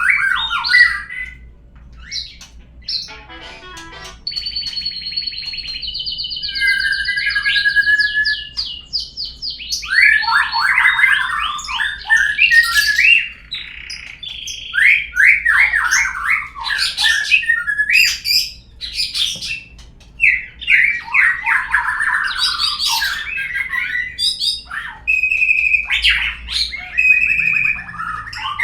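Murai batu (white-rumped shama) song of the kind played as a lure to set caged birds singing: a varied, continuous run of clear whistles, fast trills and harsh chattering notes, broken by brief pauses.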